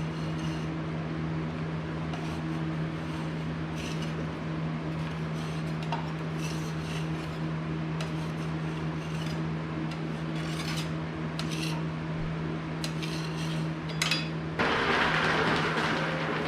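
Hand tools and metal parts clinking, knocking and scraping as wiring, cables and ignition parts are taken off a garden tractor, over a steady hum. Near the end there is a louder scraping noise for about two seconds.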